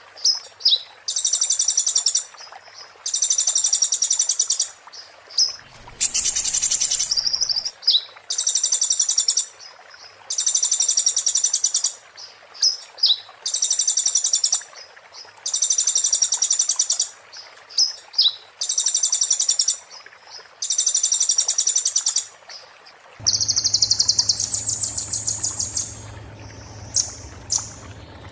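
A konin singing its 'muntah beling' song: high, rapid, buzzy trills about a second long, repeated roughly every two seconds, with short squeaky sliding notes between them. A low hum joins about 23 seconds in.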